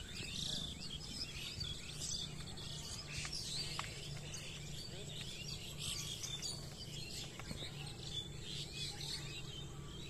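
Birds chirping and calling throughout, many short overlapping chirps and quick whistled notes.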